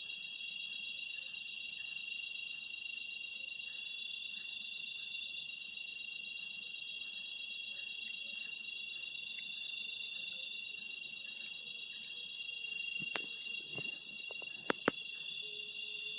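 Night insects chirping in a dense, steady, high-pitched chorus. A few sharp clicks or knocks come near the end, two of them loud and close together.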